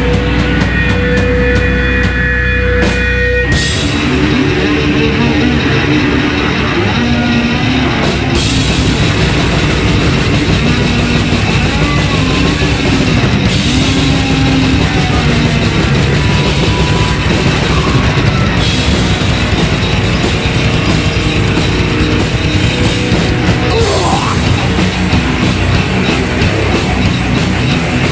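Loud live heavy metal band with two distorted electric guitars, bass and drums. A few held guitar notes ring out, and the full band crashes back in about three and a half seconds in.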